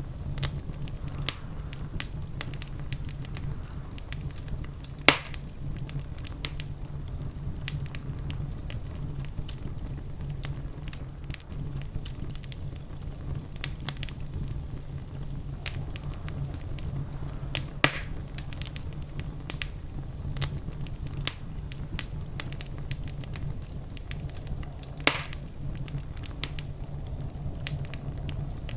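Wood fire crackling in a fireplace: a steady low rumble of the burning logs with frequent small snaps, and three louder pops at about 5, 18 and 25 seconds in.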